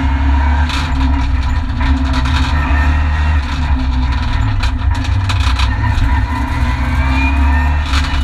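Renault Mégane RS N4 rally car's turbocharged four-cylinder engine, heard from inside the stripped cabin under hard acceleration, its revs climbing and dropping back several times with gear changes.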